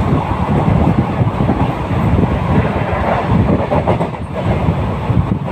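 Moving passenger train running on the track: a loud, steady running noise of wheels and carriage, dipping briefly about four seconds in.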